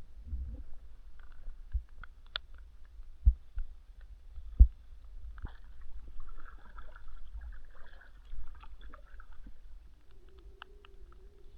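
Fishing kayak on the water: low rumble with a few sharp knocks on the hull, the loudest two about three and four and a half seconds in.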